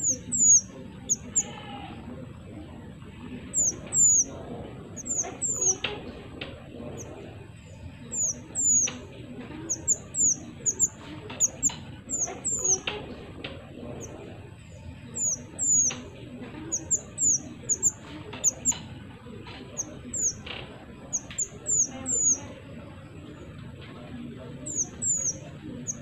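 Mantenan (small minivet) singing: thin, high, down-slurred chirps, mostly in quick twos and threes, repeated every second or two.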